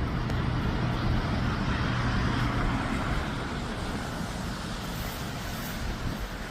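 Road traffic noise: a vehicle's steady low hum under a rushing noise, the hum fading out about halfway through.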